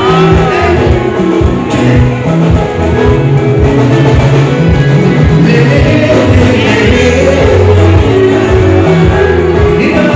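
Live band music with a male lead vocal over a steady, regular beat and a strong bass line.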